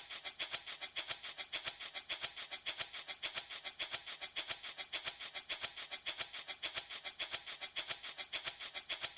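Handmade baby rattle shaken in a fast, even rhythm, about six shakes a second, a bright steady rattling.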